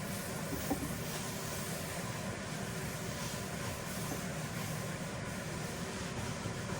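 A steady low rumble with a faint hiss over it, with one small click about a second in.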